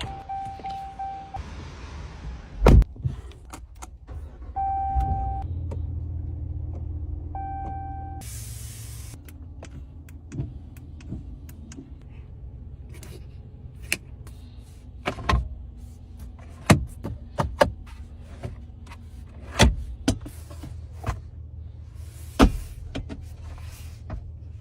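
Sounds of a pickup truck being worked: a chime beeping in three short spells in the first eight seconds, a low steady hum that comes in about five seconds in and then eases off, and a string of sharp clicks and thumps, like doors, latches and controls being operated.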